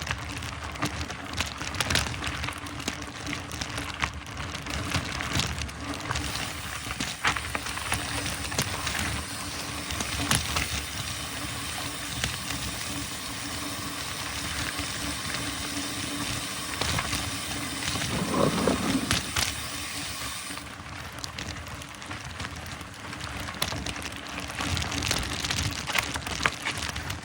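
Mountain bike riding fast over a bumpy dirt trail: steady tyre and rushing noise, with frequent knocks and rattles from the bike over humps and roots.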